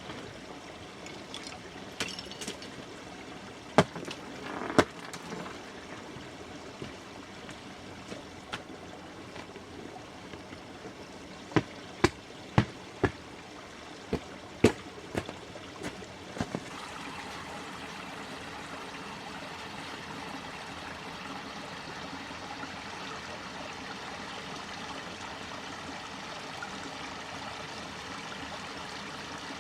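Steady rush of running water, like a forest stream, with sharp knocks or snaps now and then, several in quick succession around the middle; the rushing grows a little louder in the second half.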